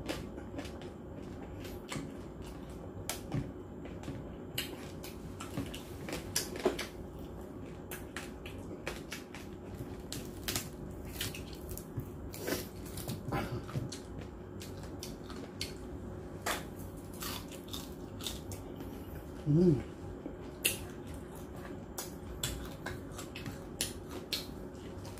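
Close-up chewing and crunching of crispy roast lechon skin and meat, irregular wet clicks and crackles, with tearing as the pork is pulled apart by hand. A short hummed 'mm' comes about three-quarters of the way through.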